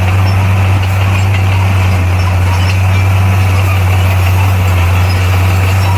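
Heavy diesel engine of an earthmoving machine running at a steady speed, a constant low drone with no change in pitch.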